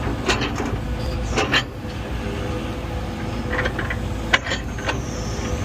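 Earthmoving machine's engine running steadily while it grades dirt, with several sharp knocks from the machine working, the loudest about four seconds in.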